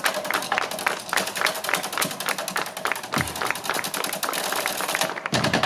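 Drummers of a construction-themed percussion show beating out a fast, steady run of sharp strikes, with the audience clapping along. Deeper thuds land about three seconds in and again near the end.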